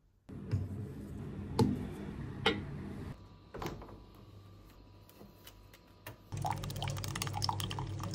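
Liquid being poured, with a few sharp clicks and knocks in the first few seconds and a louder stretch of pouring near the end.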